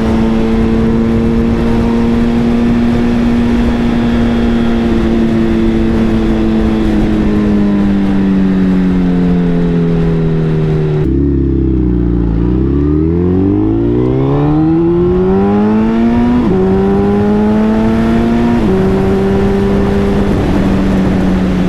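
2019 Suzuki Hayabusa's inline-four engine under way, cruising steadily and then easing off. About halfway through its pitch dips low and climbs again as the bike accelerates, and twice later the tone jumps abruptly in pitch as it changes gear. A rush of wind on the microphone fades as the bike slows.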